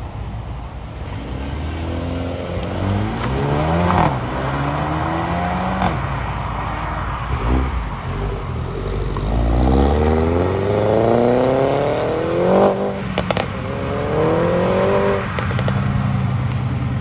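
A sports car's engine accelerating hard as it pulls away, its note climbing and dropping back with each of several upshifts. There are a few sharp cracks around the later shifts.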